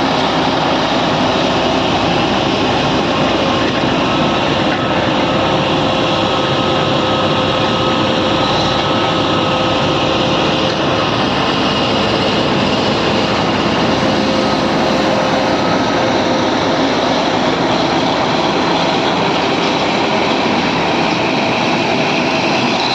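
BEML D80 crawler bulldozer running: a loud, steady mechanical din from its diesel engine and running gear, with faint steady whines over it.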